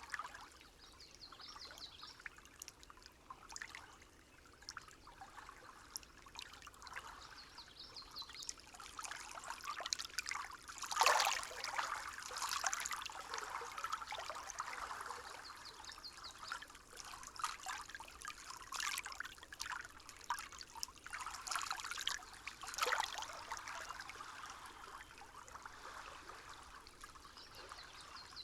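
Small stream trickling and babbling steadily, with brief louder gurgling swells about a third of the way in and again past the three-quarter mark.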